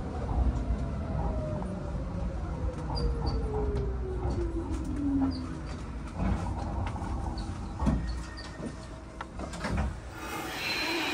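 Hanshin 5001-series electric commuter train slowing to a stop, heard from inside the car: a steady running rumble with a motor whine that falls steadily in pitch over the first few seconds as it brakes, then scattered clicks and knocks, and a hiss near the end.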